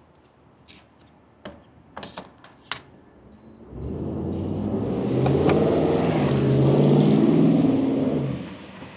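A few clicks, then four short high chimes as the BMW M2 G87's S58 twin-turbo straight-six starts up. It flares to a loud rev through catless downpipes and an equal-length mid pipe, then settles toward idle near the end.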